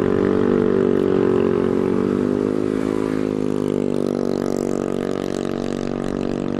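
Small motorbike engine revving up sharply at the start, then held at steady high revs with a slight waver in pitch.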